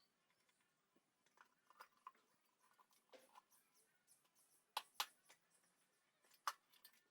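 Near silence with a few faint, scattered clicks and taps. The loudest come as a close pair a little before five seconds in and once more about a second and a half later.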